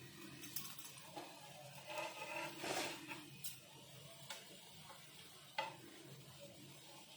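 Corn-potato tikkis sizzling faintly as they roast in a pan, with a spatula scraping and clinking against the pan several times, loudest about three seconds in.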